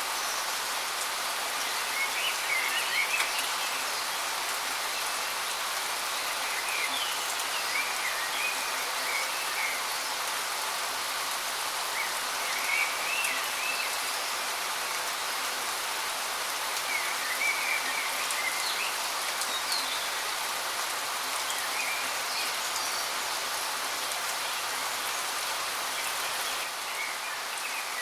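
Steady rush of water from a waterfall, with songbirds chirping in short phrases every few seconds.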